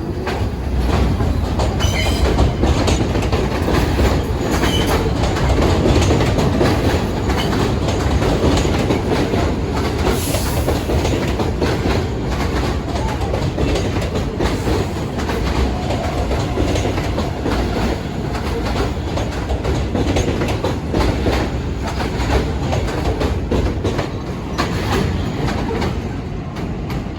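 New York City subway train running on the elevated tracks, steel wheels clattering rapidly over the rail joints for the whole stretch. A brief high wheel squeal comes about ten seconds in, and the clatter eases a little near the end.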